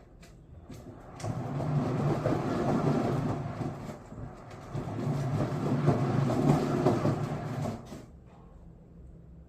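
Cat exercise wheel turning on its rollers with a rolling rumble, in two spells: from about a second in to about four seconds, and again from about four and a half to eight seconds.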